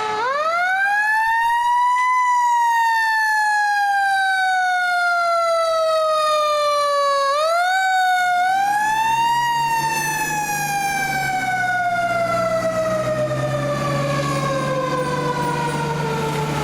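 Fire truck's mechanical siren winding up to a high wail in about two seconds, then slowly coasting down. About seven seconds in it is wound up again with a brief step in pitch, then coasts down once more. A truck engine's low hum comes in underneath in the second half.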